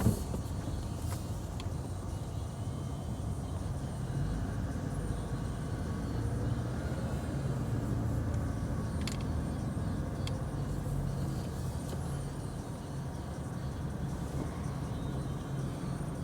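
Steady low engine rumble of vehicles, with a few faint clicks and ticks.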